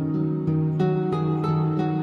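Soft background music of gently plucked notes, in the manner of a guitar or harp.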